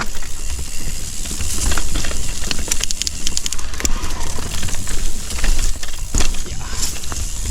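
Mountain bike riding down a rocky, rooty technical singletrack: a steady low rumble with tyres crunching over rock and roots and the bike's chain and frame rattling in quick clicks, thickest about three seconds in.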